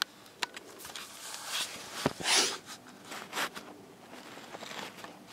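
Plastic toy train set being handled and tried out: scattered light clicks and a few short rustling scrapes, the loudest about two seconds in.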